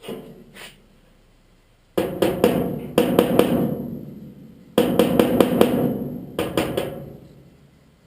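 Hammer tapping a small sheet-metal patch piece into shape. Two light knocks come first, then four bursts of quick ringing blows.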